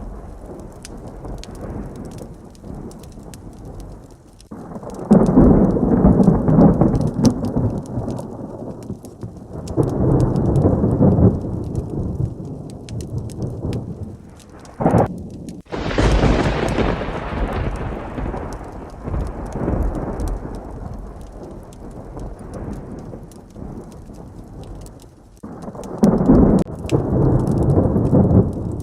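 Steady heavy rain with rolling thunder: several low rumbles swell and fade, and about halfway through a sharp, close thunderclap cracks and then rumbles away.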